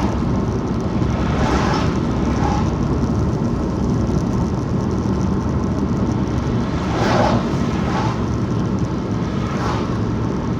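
Steady road and engine noise inside a moving car's cabin, with a few brief swells of louder, hissier noise about a second and a half in, about seven seconds in and near the end.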